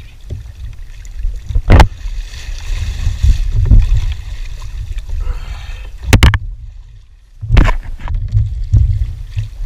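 A tarpon thrashing at the side of a kayak: water splashing and several sharp knocks against the hull, over a low wind rumble on the microphone.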